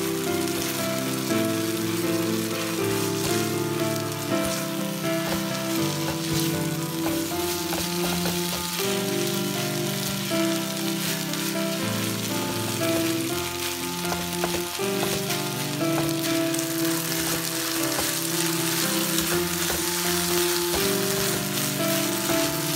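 Cold rice and leftover stir-fried zucchini frying in a hot pan, sizzling steadily as it is stirred with a spatula, under background music.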